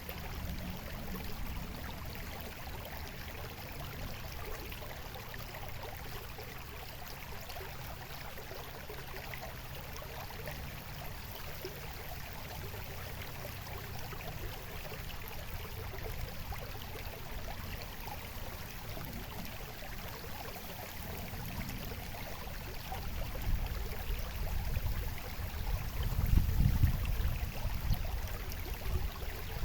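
Water babbling and trickling in a steady, even rush. Over the last few seconds a low rumble swells up and becomes the loudest part.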